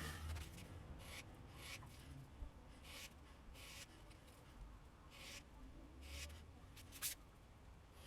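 Steel broadhead rubbed on 600-grit cloth-backed sandpaper: several short scratching strokes about a second apart, grinding the black oxide coating off the tanto point.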